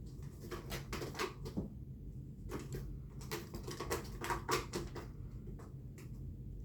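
A cat playing with a toy bird: irregular soft knocks, taps and rustles as the toy is batted and pounced on, coming in clusters.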